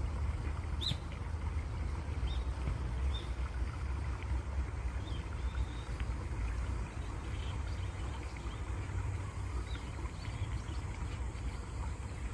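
Steady rush of flowing water with a low rumble underneath, and a bird giving short high chirps every second or two.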